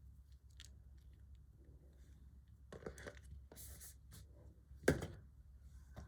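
Packaging being handled during an unboxing: soft rustles and small clicks, a few scuffing rustles past the middle, and one sharper knock about five seconds in.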